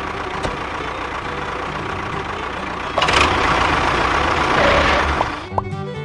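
Small vehicle engine running steadily, with a louder noisy stretch from about halfway that lasts a couple of seconds. Music comes in near the end.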